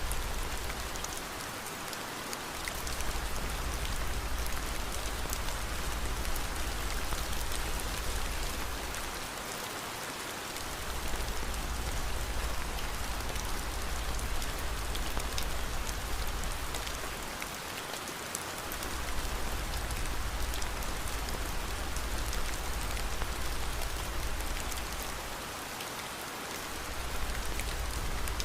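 Steady rain hiss with a low rumble underneath that fades out briefly about every eight seconds, four times over, the whole sound dipping slightly each time.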